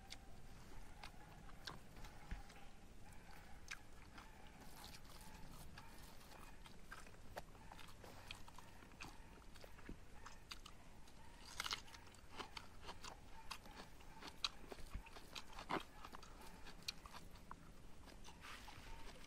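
A person chewing rice and curry up close, with many small, irregular wet clicks and crunches of eating.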